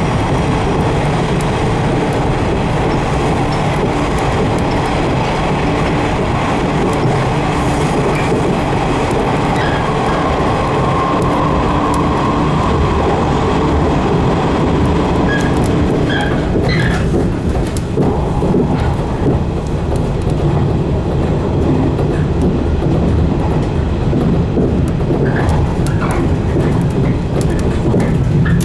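A 115 series electric train running, heard from inside the car: a steady rumble of wheels on rail and running gear. A few sharp clicks and knocks come in the second half.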